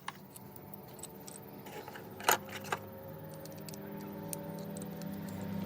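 Small metal clicks and clinks of tools and engine parts being handled, one louder clink a little past the middle, over a steady motor hum that grows louder near the end.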